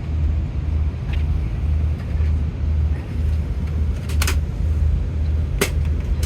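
Low hum of an Airbus A330-200 airliner cabin, swelling and fading about twice a second, with two sharp clicks about four and five and a half seconds in.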